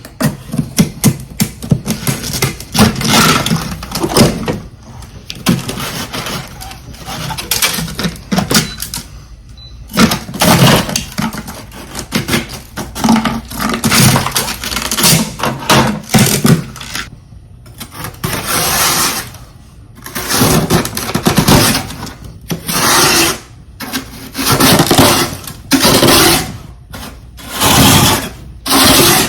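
Close-miked crunching and chewing of frosty freezer ice: dense, irregular crackling crunches, becoming a run of separate crunching bursts about a second long in the second half.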